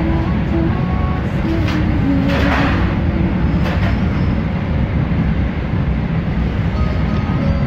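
A passenger train running at speed, heard from inside the coach: a steady low rumble of wheels on rail and carriage noise, with a short rush of noise about two and a half seconds in.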